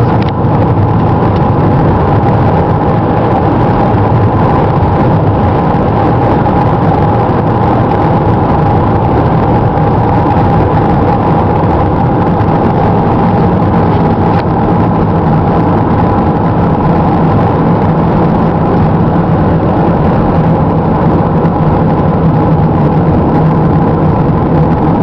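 Car driving at a steady speed, heard from inside the cabin: an even, unchanging hum of engine and road noise.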